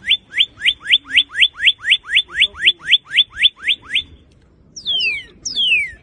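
Northern cardinal singing: a fast run of rising whistled notes, about four a second, for some four seconds, then after a short pause two long falling whistles.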